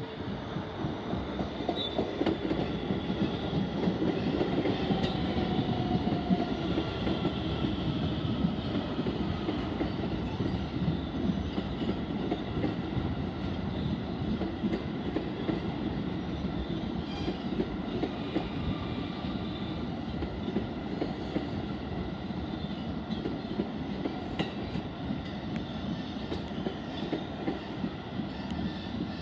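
New York City Subway R160B train with Siemens propulsion running along the track: a steady rumble of wheels on rail with some clattering. Faint whining tones drift above it. It builds up over the first couple of seconds and then eases off slowly.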